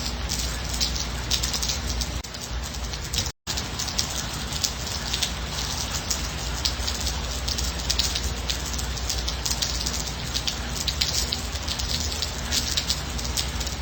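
Steady gentle rain, with a dense patter of individual drops hitting a surface and no thunder. The sound cuts out completely for a split second a little over three seconds in, then carries on unchanged.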